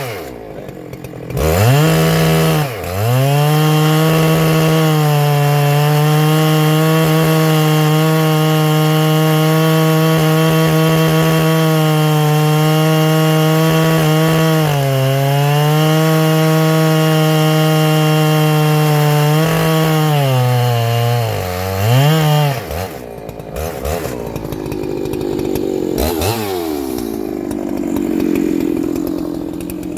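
Ported Husqvarna 3120XP two-stroke chainsaw revving up and running steadily at full throttle through a cut in hard timber, its revs dipping briefly twice under load. It eases off to a lower, rougher running near the end. The owner takes the flat top speed for a rev-limiting ignition coil that stops it revving out.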